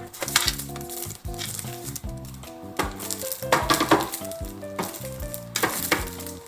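Packaging being handled, crinkling and rustling in a few bursts, the longest about three to four seconds in, over background music.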